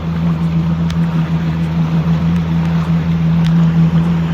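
Jet ski engine running at a steady pitch while under way, with water and wind noise around it.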